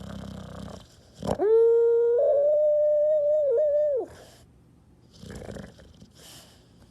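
A dog snoring briefly, then letting out one long howl of about three seconds, steady in pitch with a slight step up partway, falling away at the end. Two fainter breathy snores follow.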